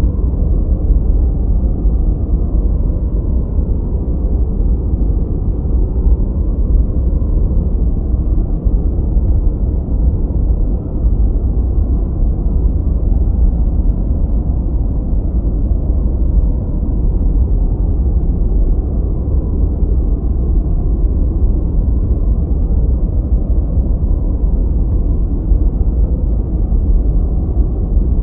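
A steady ambient noise track sold as white noise for studying, but deep and muffled rather than hissy. It is an even rushing noise, heaviest in the low end, with no high hiss and no separate events.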